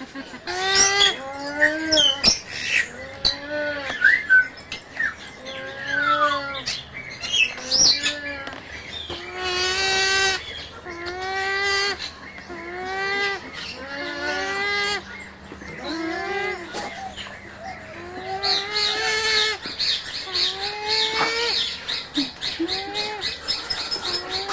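African penguins (jackass penguins) braying: a long series of repeated donkey-like calls, each note rising and falling, one after another. Near the end a higher buzzy sound joins them.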